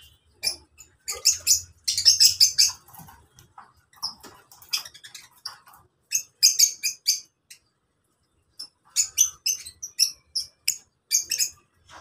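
Lovebirds chattering: clusters of rapid, shrill chirps, with a break of about a second after the middle.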